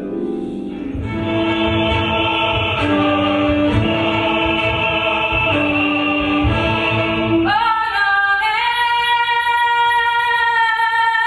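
Vocal music: voices hold low sustained chords over a pulsing low beat. About seven seconds in, a high voice slides up into a long held note.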